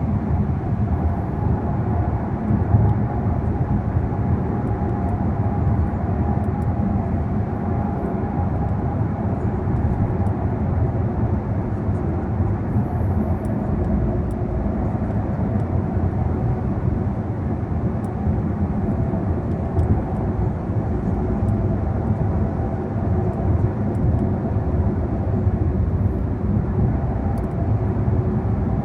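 Car driving at a steady speed, heard from inside the cabin: a continuous low tyre-and-road rumble with engine drone and a faint steady hum.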